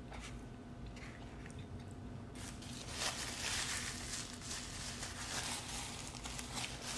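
Close-miked eating: chewing and biting into a soft chicken taco, with paper napkin rustling from about two and a half seconds in, over a faint steady hum.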